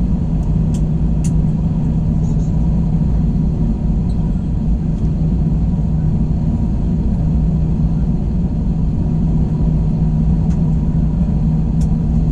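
Steady engine and airflow drone inside the cabin of an Airbus A321, a low rumble with a constant hum and a few faint clicks.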